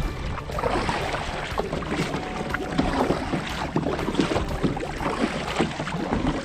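Water splashing and sloshing against a plastic sit-on-top kayak's hull in irregular splashes, with wind buffeting the microphone.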